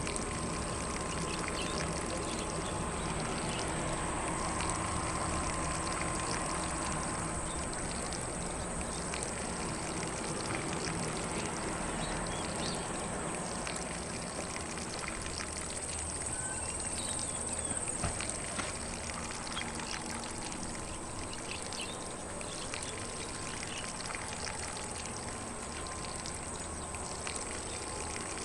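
Lawn sprinkler spraying water over grass: a steady, even hiss of falling spray with no break.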